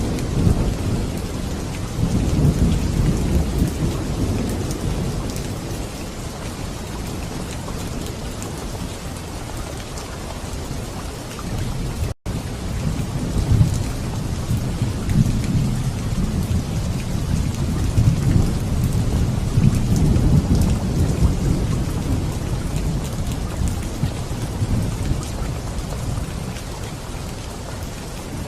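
Steady rain falling hard, with thunder rolling in long low rumbles, strongest a few seconds in and again in the second half. The sound cuts out for an instant about twelve seconds in.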